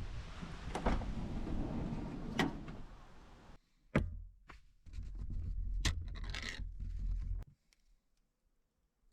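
Handling noises: scrapes and sharp knocks over wind on the microphone, a loud knock about four seconds in, then quiet after about seven and a half seconds.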